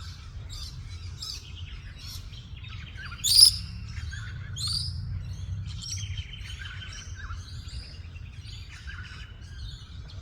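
Several birds chirping and calling in quick overlapping notes, with one loud, sharp, falling call about three and a half seconds in, over a steady low rumble.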